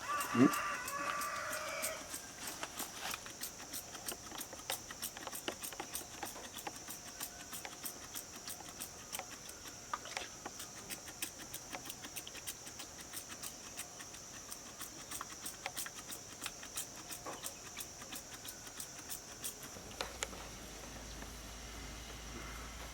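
Crickets chirping steadily in a high, continuous trill of rapid pulses. A short pitched animal call and a thump come in the first two seconds.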